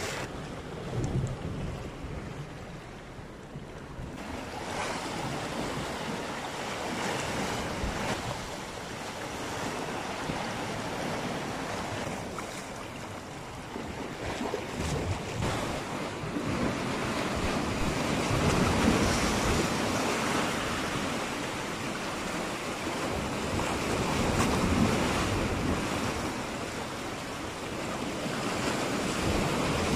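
Sea waves washing ashore in slow swells, with wind buffeting the microphone.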